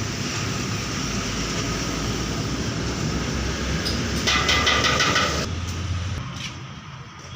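Steady vehicle and motor noise with a low rumble. A loud, harsh sound holding several steady pitches breaks in for about a second, a little past four seconds in.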